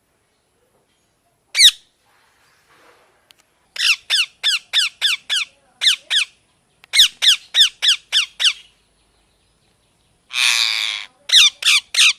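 Alexandrine parrot squawking: short, sharp calls that fall in pitch, given in quick runs of several at about four a second, with one longer, harsher screech about ten seconds in.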